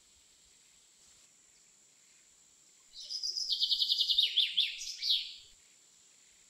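A small bird singing: a rapid trill of high chirps, about eight a second, lasting some two and a half seconds and ending in a few falling notes.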